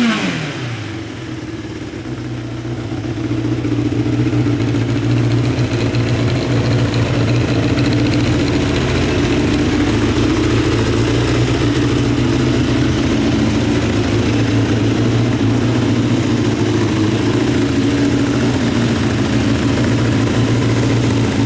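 A Honda CBX550F2 Integra's air-cooled inline-four engine drops back from a rev and settles into a steady idle, growing a little louder about three seconds in.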